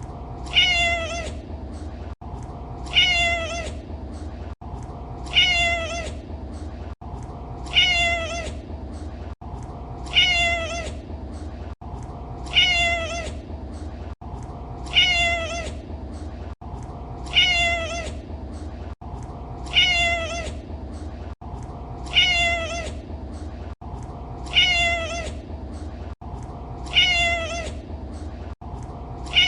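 Domestic cat meowing: the same short meow repeated about a dozen times, roughly every two and a half seconds, each call falling slightly in pitch. A steady low rumble runs underneath.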